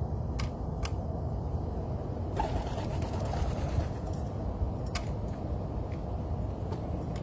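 Outdoor background rumble with several sharp clicks and one brief bird call, a little over two seconds in.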